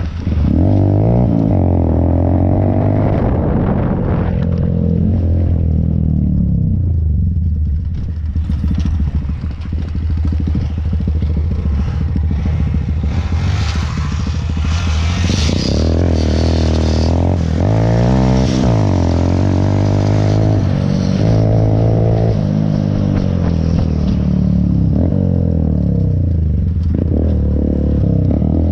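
Honda Grom's 125cc single-cylinder engine running while ridden, its pitch repeatedly climbing and falling as the throttle is worked through the gears, with a quieter eased-off stretch early on. About halfway through a spell of hiss and rattle rises over the engine.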